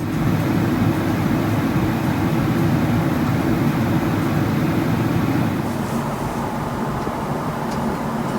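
Steady roar of a Boeing 777-300ER airliner heard from inside the cabin, easing slightly a little past halfway.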